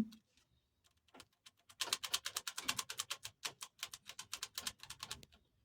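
A ratchet wrench clicking quickly and evenly, about eight clicks a second for roughly three and a half seconds, as it turns a bolt on the engine's timing-chain tensioner.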